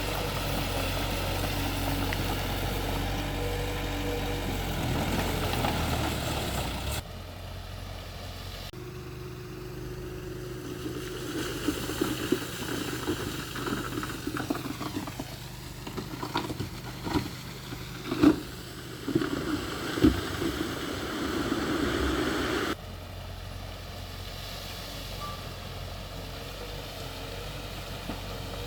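Diesel engines of heavy earthmoving machinery (bulldozer and dump trucks) running, the sound changing abruptly a few times, with several sharp knocks and clanks in the middle.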